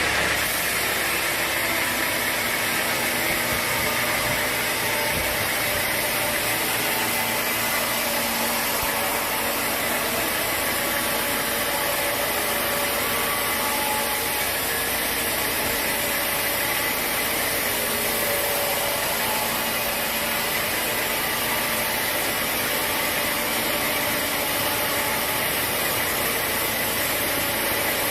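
Sawmill machinery running steadily: an engine-driven saw with a continuous, even mechanical noise.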